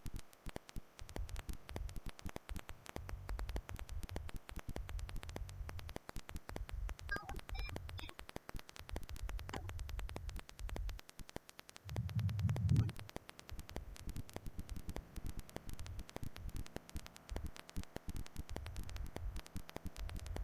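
Low, uneven rumbling noise on the microphone, with a louder burst about twelve seconds in.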